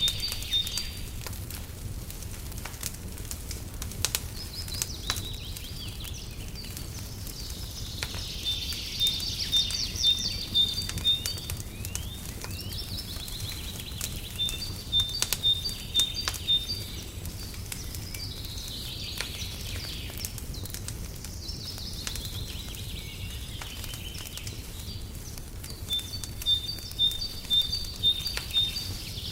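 Songbird singing in phrases every few seconds, each with a quick run of repeated high notes, over a fireplace crackling with scattered small pops and a steady low rumble.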